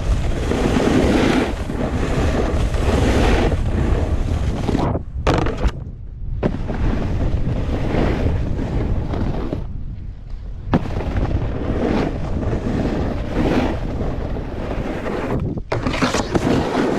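Wind rushing over a GoPro's microphone as a snowboard slides over snow, cutting out briefly a few times, with a couple of sharp knocks.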